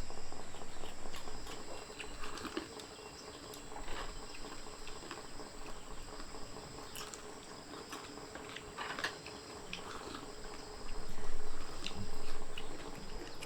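Steady high-pitched drone of insects (crickets) singing, with scattered light clicks and taps over it.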